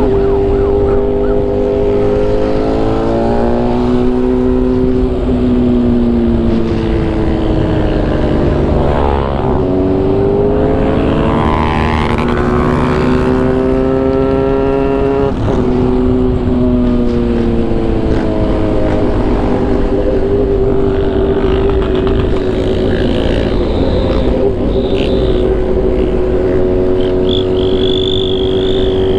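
Motorcycle engine running under way, its pitch climbing and falling with throttle and gear changes: a sharp dip and climb about nine seconds in, another shift about fifteen seconds in. A steady rush of wind and road noise runs underneath.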